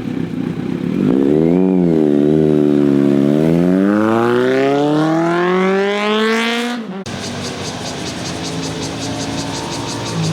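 A motorcycle engine accelerating hard, its pitch climbing steadily for several seconds before it cuts off abruptly. A steadier engine sound follows.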